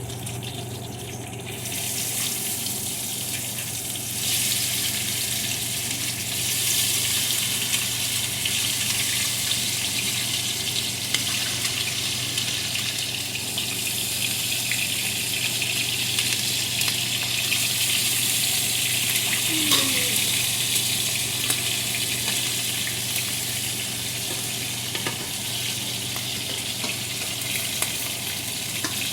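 Seasoned chicken drumsticks sizzling and crackling in hot oil in a frying pan, a steady hiss that grows louder a couple of times early on, over a steady low hum.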